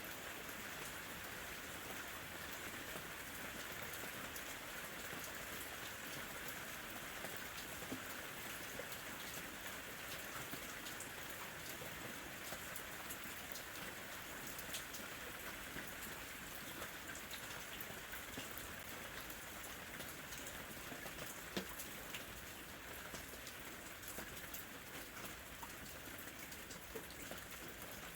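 Steady summer rain falling, an even hiss with scattered individual drops ticking on a surface.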